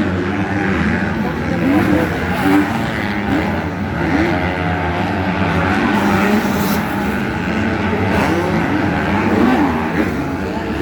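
Several motocross motorcycle engines running hard at once, their pitch repeatedly rising and falling as the riders open and close the throttle around the track.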